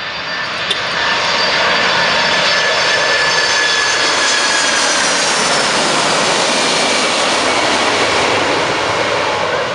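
Jet engines of a Boeing 747-400 freighter passing by on landing: a loud rushing roar that builds about a second in and eases near the end, with several whining tones that slide slowly down in pitch.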